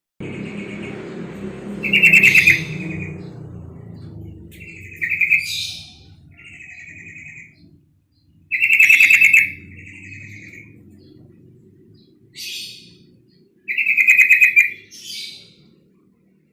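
Female yellow-vented bulbul giving harsh, rapid chattering calls in four loud bursts a few seconds apart, with softer chirps and short rising notes between them. A low background rumble runs underneath.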